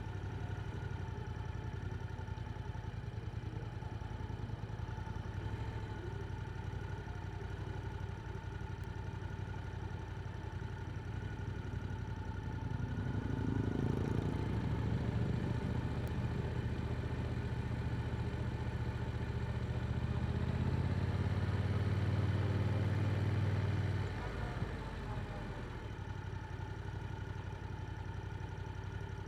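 Yamaha R7's parallel-twin engine running through an Akrapovic exhaust. It gets steadily louder from about halfway through, then drops back suddenly near the end as the throttle eases off.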